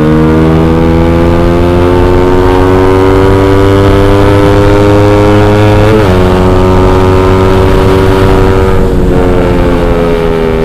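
Motorcycle running through an X1 Speed aftermarket racing exhaust under acceleration, loud. The engine note climbs steadily, with a short dip as it shifts gear about six seconds in, and eases off slightly near the end.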